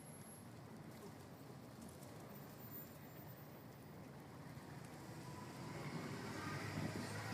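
Faint, steady city street noise in a snowstorm. Over the last couple of seconds a passing motor vehicle grows louder.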